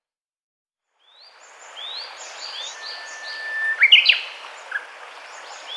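Birds chirping with repeated short rising calls over a steady hiss of outdoor background noise. It starts about a second in, after silence. A louder sweeping call comes just past the middle.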